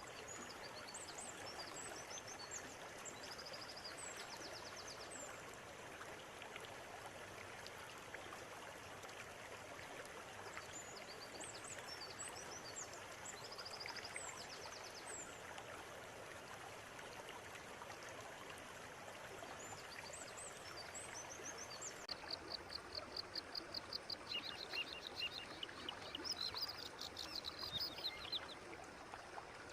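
River water running steadily, with small birds chirping in short bursts above it. About two-thirds of the way through, a louder bird starts singing repeated fast trills that go on to the end.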